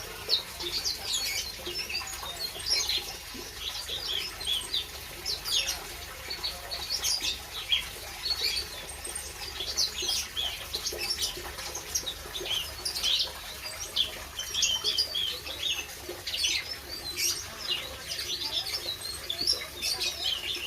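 Many small birds chirping: short, high chirps overlapping one another, several a second, in an irregular chorus.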